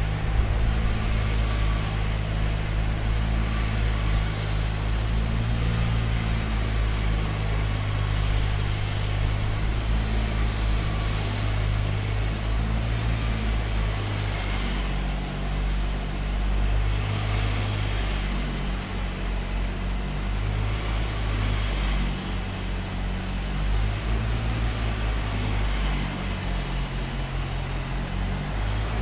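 Steady low rumble of engine-driven machinery running on a construction site, with a constant noisy hiss above it and no distinct hammer or drill strikes.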